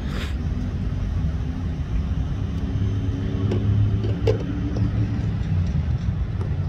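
A car's engine running with a steady low rumble, and a few faint clicks over it.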